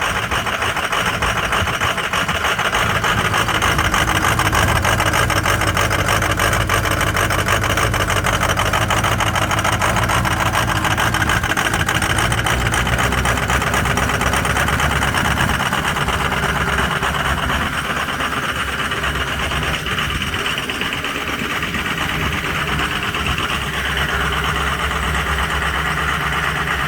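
Ford 6.0 L Powerstroke V8 turbo-diesel idling steadily as it warms up after a cold start, on some bad injectors.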